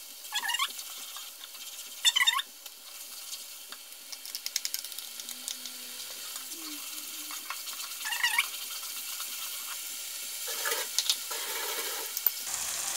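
Chopped onion and ginger-garlic paste sizzling in oil in a non-stick kadhai, with a steady frying hiss. Three short high squeals cut in about half a second, two seconds and eight seconds in, and a few light knocks come near the end.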